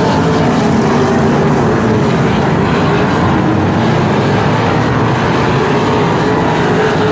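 Sprint car engines running at racing speed, a loud continuous drone whose pitch wavers up and down as the cars go around the track.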